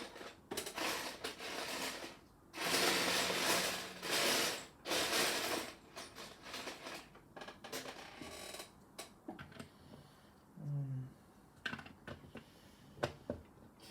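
Loose plastic Lego pieces clattering as a hand rummages through a pile of parts, loudest about three to six seconds in, then scattered single clicks of pieces being picked up and set down.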